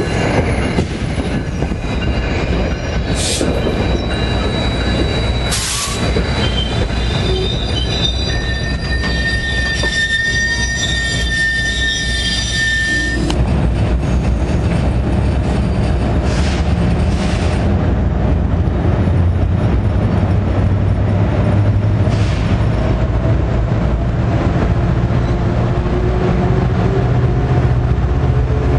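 NJ Transit commuter train passing with a PL42AC diesel locomotive, wheels on the rail with a few sharp clanks early on. About a third of the way in comes a high, steady wheel squeal lasting some four seconds, and a low rumble grows louder through the second half.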